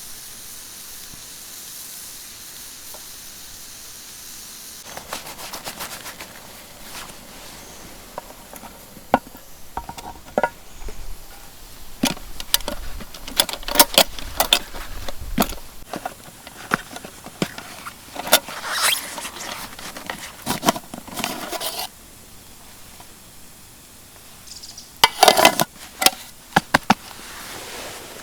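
A steady hiss for about the first five seconds, then a long run of sharp clicks, knocks and clatter as camp cooking gear is handled, with a loud flurry of knocks near the end.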